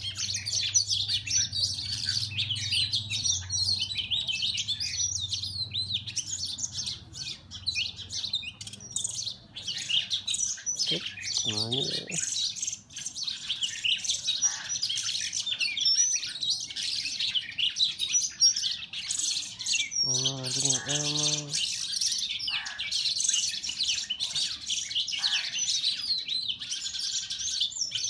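Songbirds, oriental magpie-robins among them, chirping and calling rapidly and without pause, high-pitched. A couple of short, lower calls cut in, about twelve seconds in and again about twenty seconds in.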